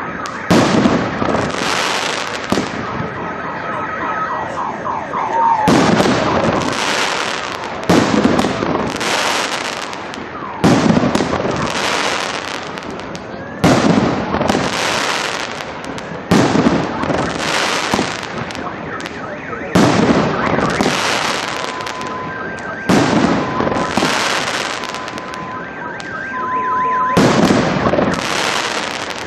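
Fireworks display: shells bursting one after another, a sharp bang every second or two, each trailing off. Thin high tones sound on and off behind the bursts.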